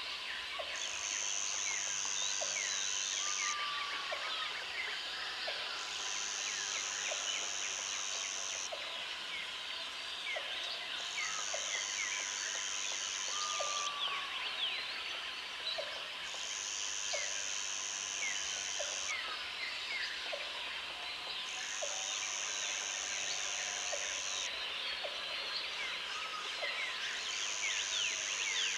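Jungle ambience: a high insect buzz comes in bursts of about two and a half seconds, roughly every five seconds, over a steady chorus of insects and crickets. Many birds chirp and call throughout, with an occasional short falling whistle and a soft click about once a second.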